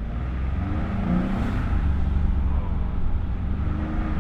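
Ford F150's twin-turbo EcoBoost V6 accelerating under load, growing steadily louder, with turbo spool and intake noise through an aftermarket cold air intake.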